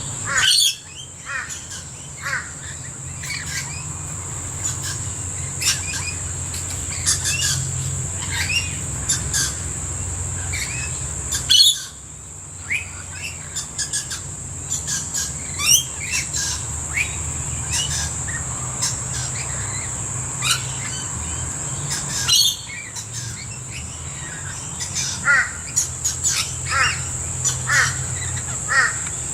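A flock of birds calling at a feeding spot, rainbow lorikeets, blue-faced honeyeaters and noisy miners among them: many short, quick calls one after another, over a steady high-pitched insect whine.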